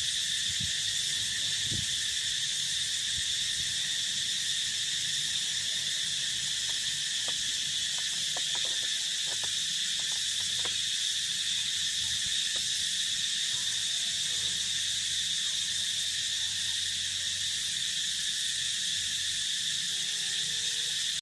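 Steady, unbroken chorus of field insects, a shrill continuous trilling that holds the same level throughout.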